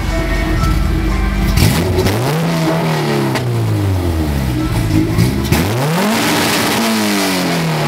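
Engine-swapped Honda Civic hatchback's four-cylinder engine free-revved twice while parked: each time the pitch climbs sharply, about two seconds in and again a little over halfway, then falls back slowly toward idle.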